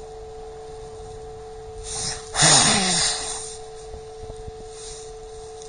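A loud breathy snort through the nose about two seconds in, lasting about a second, over a steady electronic hum tone.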